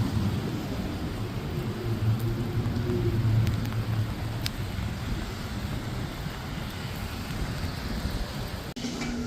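Rain and wet-street traffic noise, with the low hum of a passing vehicle's engine swelling about two to four seconds in. The sound drops out briefly near the end.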